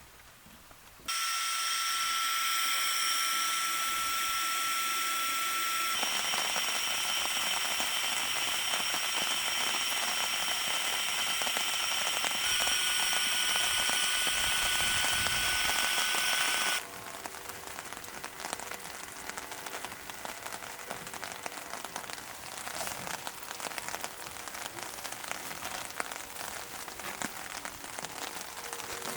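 Electric air pump running with a steady whine and rushing air for about fifteen seconds, inflating an air tent: it switches on about a second in, its pitch shifts slightly twice as the load changes, then it cuts off abruptly. Rain patters steadily after it stops.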